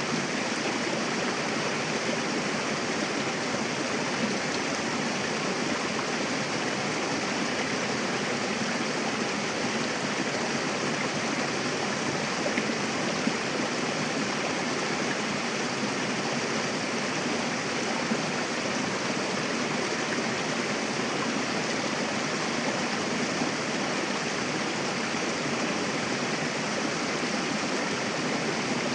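Mountain river flowing over rocks: a steady rushing of water that does not change.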